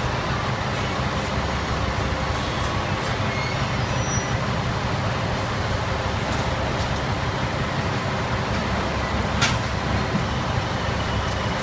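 KiHa 101 diesel railcar engines idling steadily, with two short, sharp hisses of air: one about nine seconds in and one near the end.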